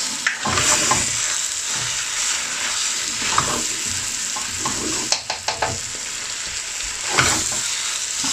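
Chicken curry frying on high heat in a pan, with a steady sizzle, while a spoon stirs and scrapes the pan, giving a few quick clicks and a louder scrape near the end.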